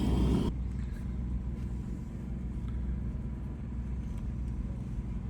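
A steady low engine rumble with an even hum. A louder sound with steady tones cuts off abruptly about half a second in.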